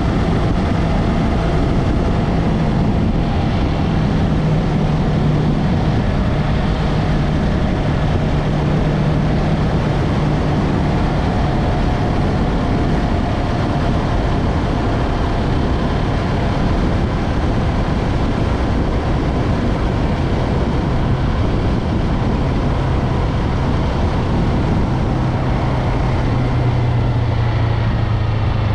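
Yamaha MT-03 motorcycle engine running steadily under way, its pitch shifting slightly near the end, with heavy wind and road noise.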